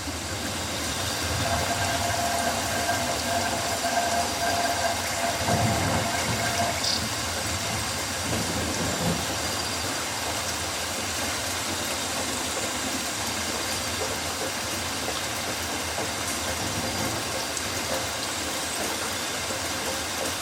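Steady rain falling on rainforest foliage, an even hiss throughout. It swells slightly in the first few seconds, with a faint held call in it, and there is a brief high chirp about seven seconds in.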